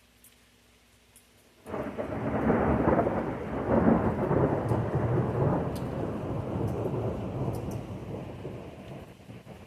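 Thunder: a sudden loud clap about two seconds in, followed by a long rolling rumble that slowly fades over several seconds.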